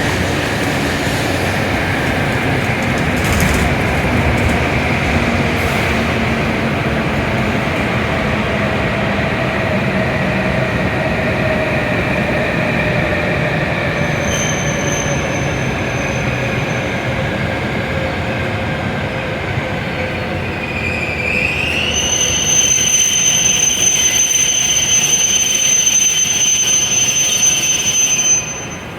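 W7 series Shinkansen train pulling into the platform and braking: its motor whine falls slowly in pitch as it slows. About three-quarters of the way through, a high steady whine sets in, and it cuts off abruptly near the end as the train comes to a stop.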